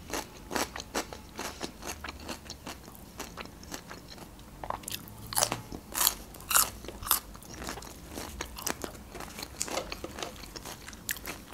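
Close-miked chewing of crisp raw green onion: irregular wet crunches and mouth clicks, a few louder crunches near the middle.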